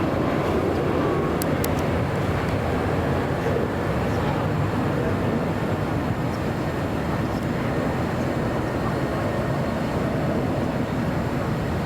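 Jet airliner engine noise, a steady rumble that eases off slowly.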